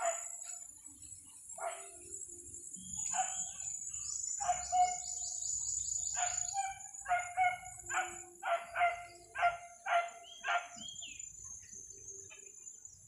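Birds calling: short repeated calls, densest in a quick run of about three a second in the second half, with a fast falling trill about four seconds in, over a steady high-pitched buzz.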